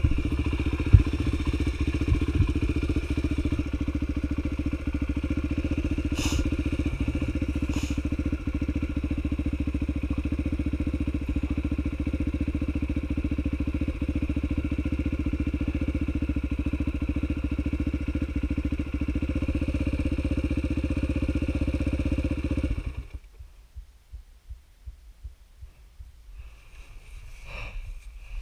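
Dirt bike engine running steadily at idle, then shut off about 23 seconds in, leaving only faint knocks.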